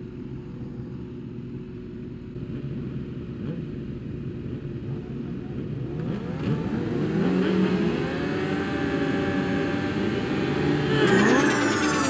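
Several racing motorcycle engines idling together, then from about halfway many revving up and down at once, the sound growing steadily louder, with a sharp loud surge near the end.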